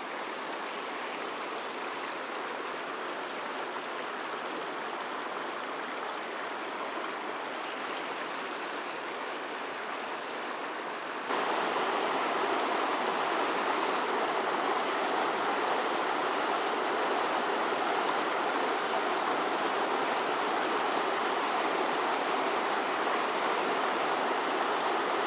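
Mountain stream rushing over rocks, a steady wash of water; about eleven seconds in it becomes suddenly louder and stays so.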